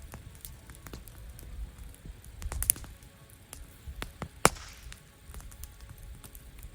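Wood campfire crackling, with scattered small ticks and two sharp, louder pops, one about two and a half seconds in and one about four and a half seconds in, over a low rumble.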